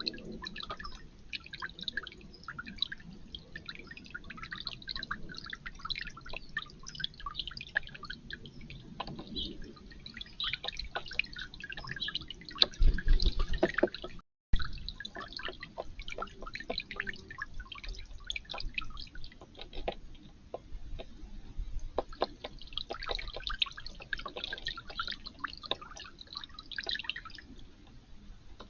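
Water dripping and trickling in a backyard fountain or bird bath: many small, irregular drips and splashes, with a louder burst a little before the middle.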